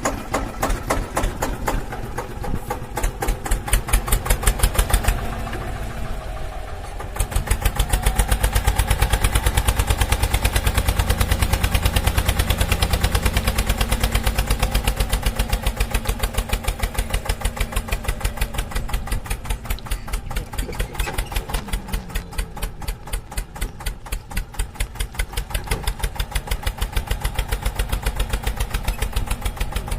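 Small engine of a mini tractor running with an even chugging beat, growing louder from about seven seconds in.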